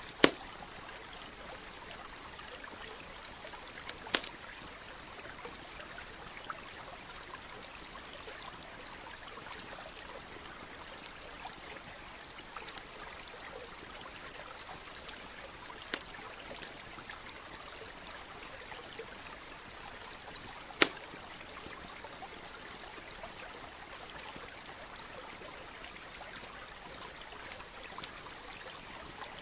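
A stream running steadily with a campfire crackling over it: scattered small snaps, with a few sharp pops standing out, the loudest just after the start, at about four seconds and at about twenty-one seconds.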